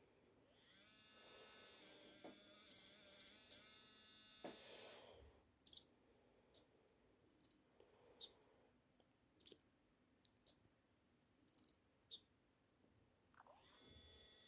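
Small electric motor and servo under test: the motor whines steadily for about four seconds, then short sharp high-pitched buzzes come roughly once a second, and near the end the motor spins up again with a rising whine.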